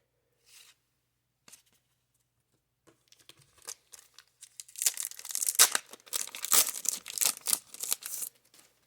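A paper baseball card pack wrapper from a 1990 Score wax box being torn open and crinkled by hand: a few faint rustles at first, then a dense, crackling stretch of tearing and crumpling that stops shortly before the end.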